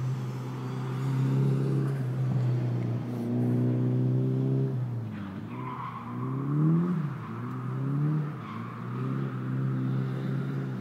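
Toyota Chaser JZX100 drift car's engine held at steady revs. About five seconds in it drops off, then revs up and down, while a faint tyre squeal comes in.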